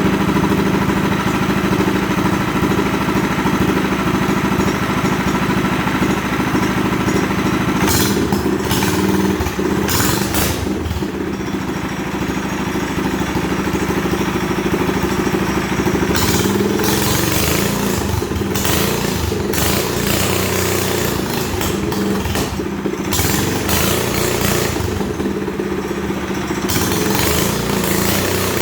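Minibike's small engine running steadily, its note shifting a few times.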